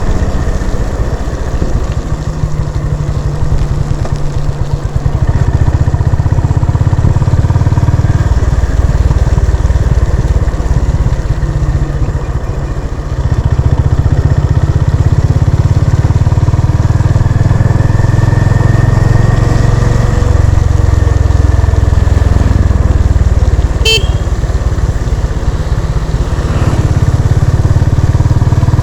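Honda CB350 RS's single-cylinder engine running under way, its note easing off and picking up again with the throttle, louder and steadier from about halfway through.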